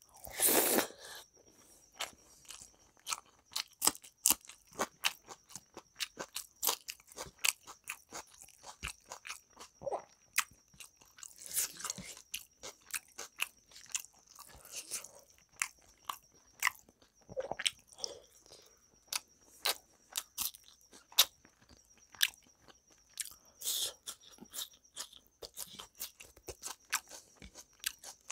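Close-miked chewing of rice and chicken curry eaten by hand, with frequent irregular wet clicks, smacks and crunches, and a few louder mouthfuls.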